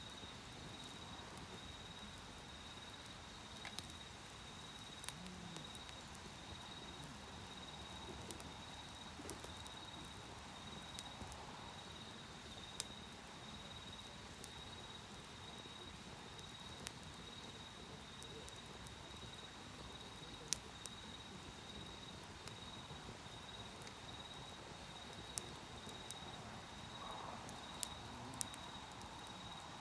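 An insect trilling steadily at one high pitch, over the low hiss of a wood campfire that gives a sharp crackle or pop every few seconds.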